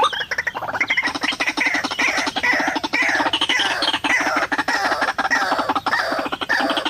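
White-breasted waterhen (ruak-ruak) calling: a loud, fast run of harsh repeated notes with falling phrases about twice a second.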